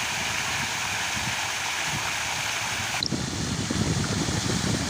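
Water jet spraying with a steady hiss as a tractor is washed down. About three seconds in, the hiss suddenly drops and an uneven low rumble takes over.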